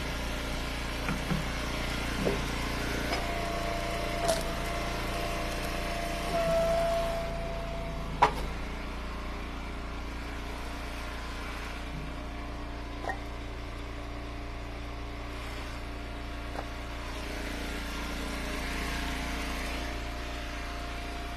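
Engine-driven hydraulic log splitter running steadily while rounds are split. A held whine builds for a few seconds, then a sharp crack comes about eight seconds in, with lighter knocks around it.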